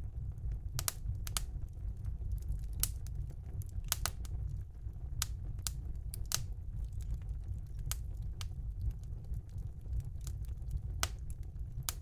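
Wood fire burning in a fireplace: irregular sharp crackles and pops, one or two a second, over a steady low rumble of the flames.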